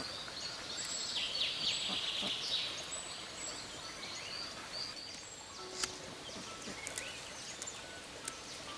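Outdoor forest ambience: an insect trilling in a steady pulsing rhythm, with scattered short bird chirps and whistles and a few sharp clicks. A louder hissing swell comes about one and a half to two and a half seconds in.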